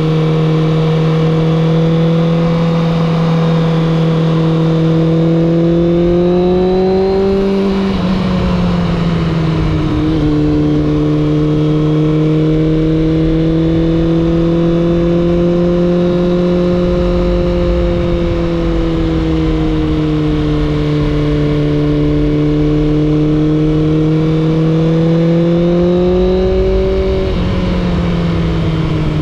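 Suzuki GSX600F inline-four motorcycle engine and exhaust under way, holding a steady note with wind noise. Twice, about eight seconds in and again near the end, the pitch climbs and then drops sharply, as at an upshift.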